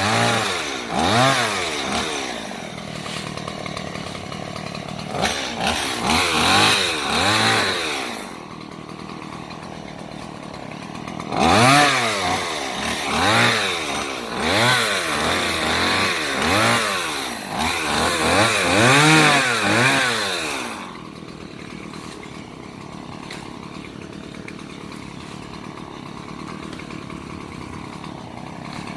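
Stihl MS 170 two-stroke chainsaw revved up and down again and again in short bursts, dropping back to a steady idle for a few seconds near the middle and again for the last third.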